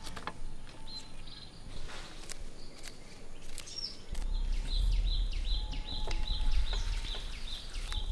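Outdoor garden ambience with scattered light clicks. About halfway through, a bird starts calling in a quick series of short falling chirps, about three a second, over a low rumble.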